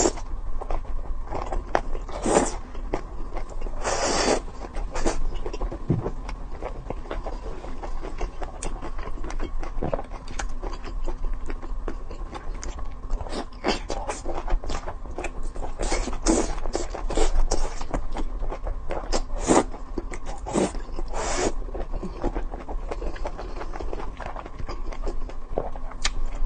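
Close-up eating sounds: irregular wet smacks, clicks and scrapes of chewing and of food being handled, over a steady background hum.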